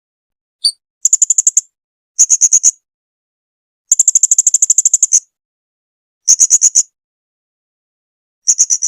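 Blue-crowned hanging parrot (serindit) calling. One short note, then five bursts of rapid, high-pitched chips, about ten a second, separated by silence. The longest burst comes in the middle.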